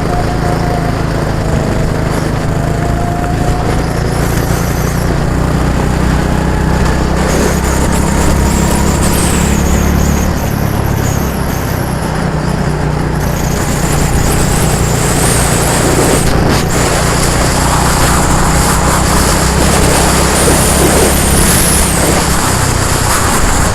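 A vehicle engine running steadily at a constant speed, loud and close, its low pitch holding even throughout.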